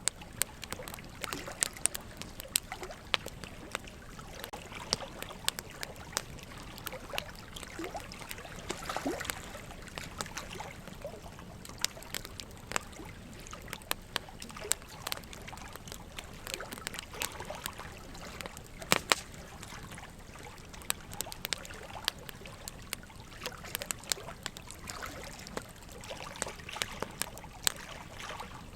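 Burning logs crackling: irregular sharp pops and snaps, the loudest about two-thirds of the way in, over a steady trickle of running water.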